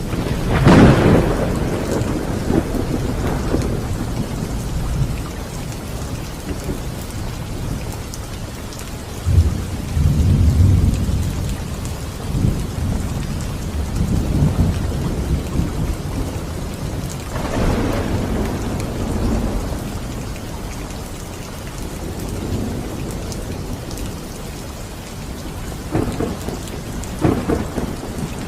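Steady rain with thunder. A sharp clap and rumble right at the start, a low rolling rumble about ten seconds in, another peal past the middle, and a couple of short cracks near the end.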